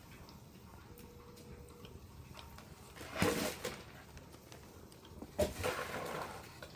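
Campfire roasting chestnuts, crackling faintly with scattered small pops, broken twice by louder rustling, rattling bursts about three and five and a half seconds in.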